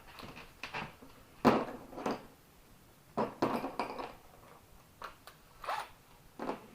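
Metal tools clinking and knocking against the metal parts of an old GM starter motor being taken apart, in about six separate strikes, the loudest about a second and a half in.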